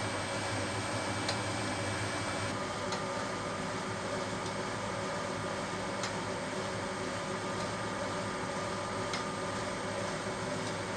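1980 HUWA Automatic Standard 4 washing machine running mid-program: a steady motor hum with occasional sharp clicks. Its tone shifts slightly about two and a half seconds in.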